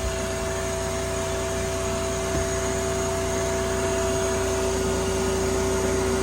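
Steady machine drone with two held tones over an even hiss, unchanging throughout.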